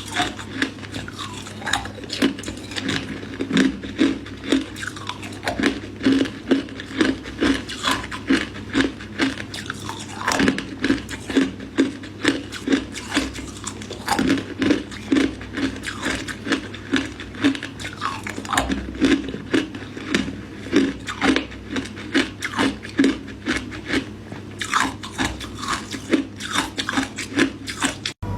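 Close-up crunching and chewing of ice with matcha, sharp crunches coming steadily about twice a second. The sound breaks off briefly just before the end.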